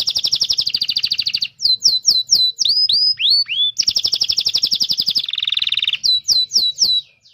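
Domestic canary singing a fast, varied song: quick rolling trills alternating with runs of separate sweeping chirps, with a lower buzzy trill just past halfway. The song stops just before the end.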